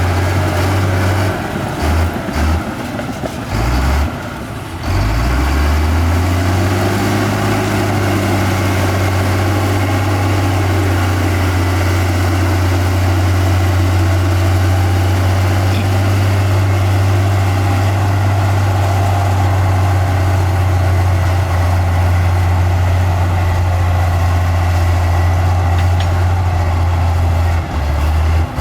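Diesel engine of heavy earthmoving machinery, a bulldozer or dump truck, running steadily with a strong low rumble; the sound dips briefly a couple of times in the first five seconds.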